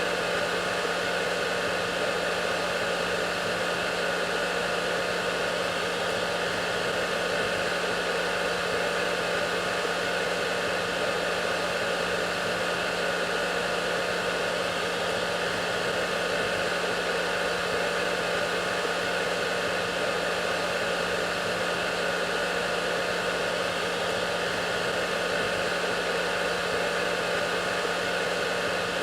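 A hair dryer running steadily: an even rush of blown air with a constant motor hum and fan whine, no change in speed.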